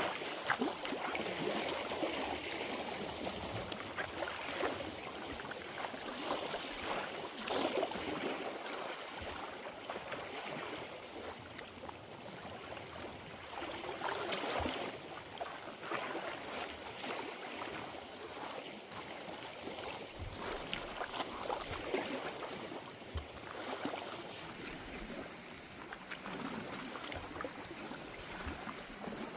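Lake water sloshing and splashing, swelling and easing every few seconds.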